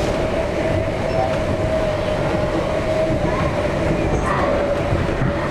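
Passenger train running along the track: a steady rumble with a constant mid-pitched hum over it.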